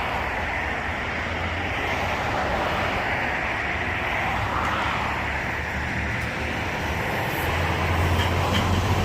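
Car-wash equipment running with a steady rushing hiss over a low hum, switched on abruptly.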